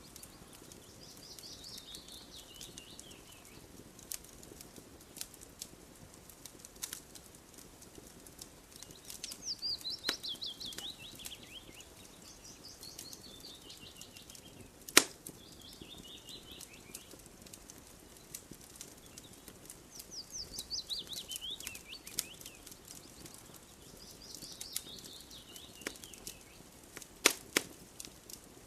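Wood fire crackling, with scattered sharp pops (a loud one about halfway through and a quick cluster near the end). A songbird sings a short falling trill of quick notes, repeated about five times.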